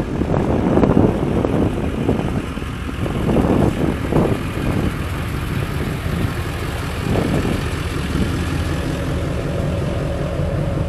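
Car engines idling in a line of demolition derby cars waiting for inspection, a steady low drone. Wind buffets the microphone in the first few seconds.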